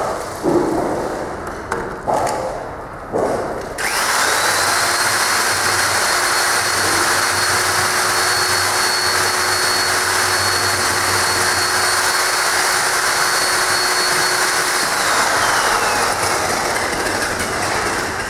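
A few knocks, then an electric power tool starts about four seconds in. It runs steadily with a high whine for about eleven seconds and winds down near the end.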